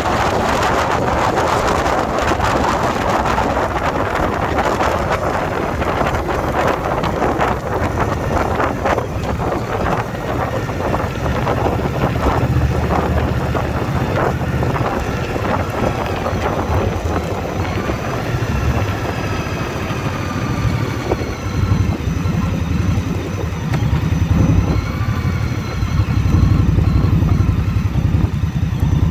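Indian Scout Bobber Twenty's V-twin engine running while under way, with wind rushing over the microphone. The wind is loudest at first, and the engine hum comes forward in the second half as it dies down.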